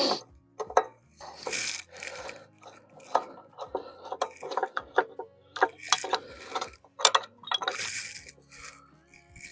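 Small metal carburetor parts being handled as the float bowl comes off a tiller's carburetor: a string of light clinks and clicks, with a few short hissy bursts.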